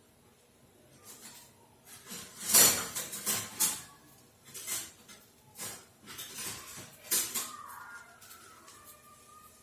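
Metal kitchen utensils and a pan clattering and scraping in a series of separate knocks, loudest about two and a half seconds in.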